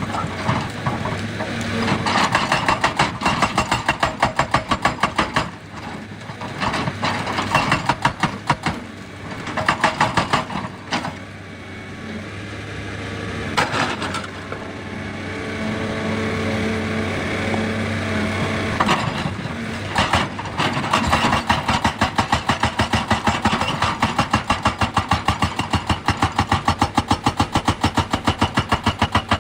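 Excavator diesel engine running under a hydraulic rock breaker hammering in long runs of fast, even blows, about five a second, with short pauses between runs.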